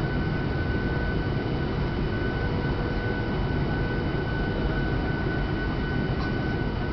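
Steady cabin noise of a Boeing 737-800 in flight: a low rumble of engines and airflow, with a steady high whine from its CFM56-7B engines.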